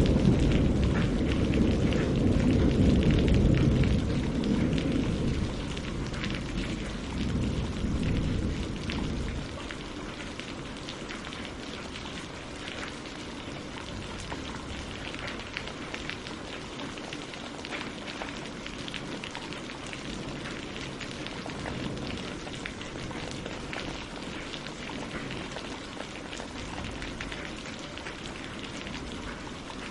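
Steady rain falling on water and leaves, a fine patter of drops. A low rumble of thunder dies away over the first nine seconds or so.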